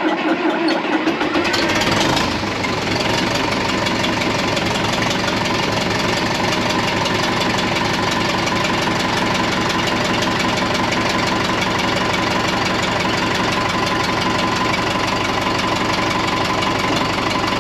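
A tractor engine is cranked on the starter in cold weather and catches about two seconds in. It then settles into a steady idle.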